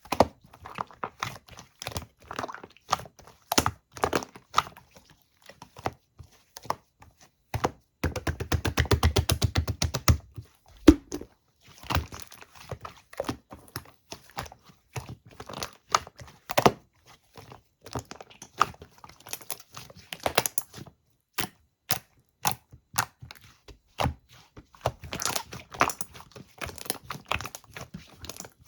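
Irregular sharp clicks, taps and crinkling, with a fast rattling run lasting about two seconds, starting about eight seconds in.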